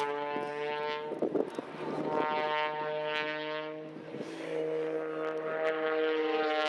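Extra 300 aerobatic aircraft's piston engines and propellers droning in a steady buzzing note that changes pitch about four and a half seconds in.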